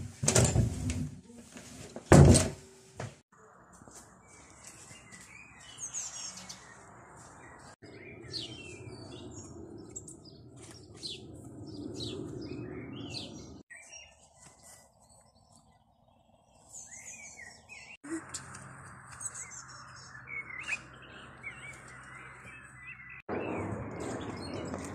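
Small birds chirping, many short high calls one after another, over a background hiss that changes abruptly several times. In the first two seconds come two loud thumps; the second, about two seconds in, is the loudest sound here.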